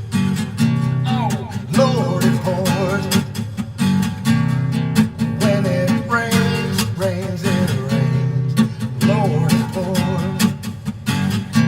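Guitars playing an instrumental break in a blues-rock song: steady strummed chords with a lead line of bent, wavering notes over them.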